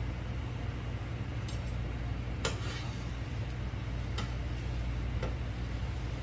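A few separate light clicks of a metal utensil against a pan while fried potato patties are lifted out of the oil, over a steady low hum.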